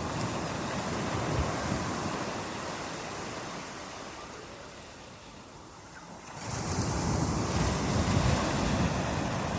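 Ocean surf: the wash of a wave slowly fades away, then a new wave breaks suddenly about six seconds in.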